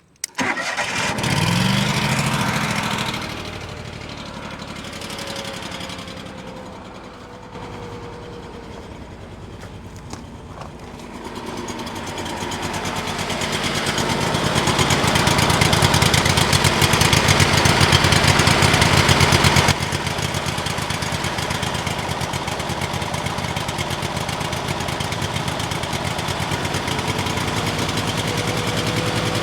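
Kohler CH25 25 hp air-cooled V-twin engine starting and running, its speed rising at first and then settling. About twelve seconds in it gets faster and louder for several seconds, then drops back suddenly two-thirds of the way through to a steady run. It is being run to check whether it still smokes after a new head gasket and replacement carburetor.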